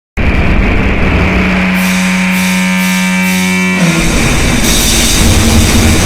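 Harsh noisecore recording cutting in abruptly after a moment of silence: a loud, distorted wall of noise with a held droning pitch, which breaks off a little under four seconds in into denser, churning noise.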